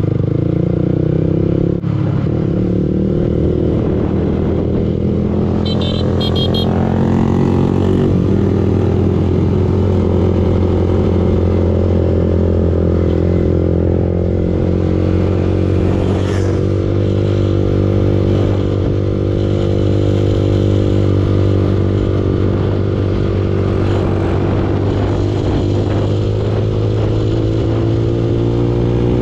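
Yamaha R15 V2 motorcycle's single-cylinder engine running on the move, heard close up. The revs ease off over the first few seconds, hold steady through most of the ride, then rise again near the end.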